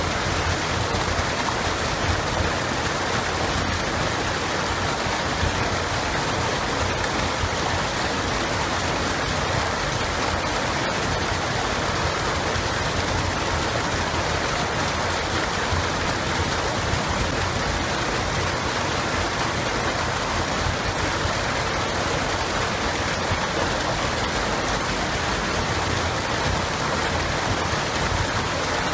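Running water of a stream or river, a steady even rush with no breaks.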